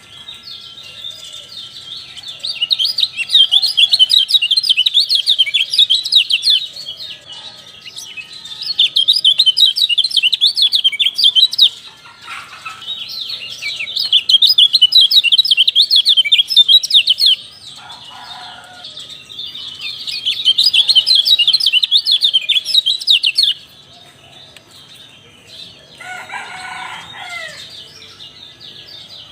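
White-eye (kecial) song: phrases of rapid, high-pitched twittering, each lasting a few seconds, repeated about five times with short pauses between. About three seconds from the end comes a lower-pitched call.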